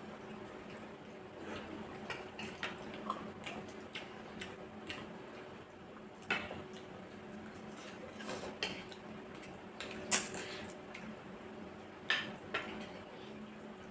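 Scattered clinks of spoons against plates and bowls during a meal, with a sharper clink about ten seconds in.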